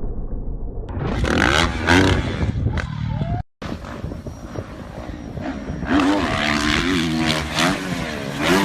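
Motocross dirt bike engines revving, their pitch rising and falling over and over. The sound cuts off abruptly about three and a half seconds in, then picks up again with more revving.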